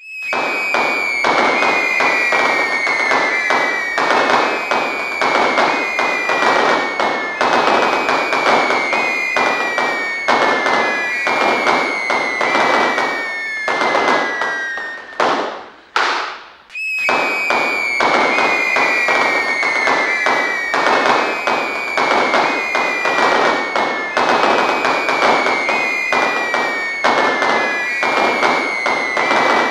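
Fireworks going off in a dense barrage of rapid cracks and pops, with overlapping whistles that each fall slightly in pitch. The barrage dips briefly about halfway through, then carries on.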